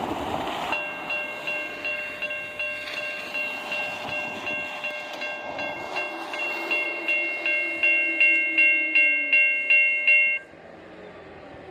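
Railroad warning bell ringing rapidly, about two to three strokes a second, growing louder and then cutting off suddenly near the end. Before it starts there is a brief rushing noise.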